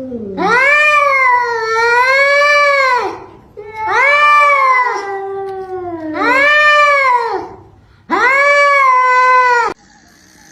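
A domestic cat yowling: four long, loud, drawn-out meows, each rising and then falling in pitch, the last cut off suddenly.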